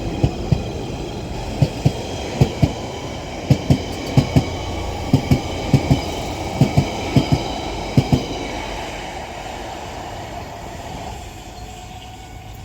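London Underground 1992 stock Central Line train pulling out, its wheels clicking in pairs over rail joints, the pairs coming closer together as it speeds up. The clicking stops about eight seconds in and the rumble fades away as the train leaves.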